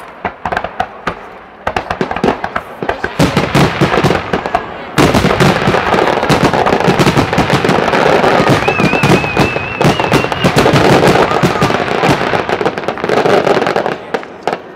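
WECO fireworks display: a dense barrage of rapid cracks and bangs that builds, then jumps sharply louder about five seconds in and stays at that intensity until near the end. A wavering high whistle sounds over the barrage midway.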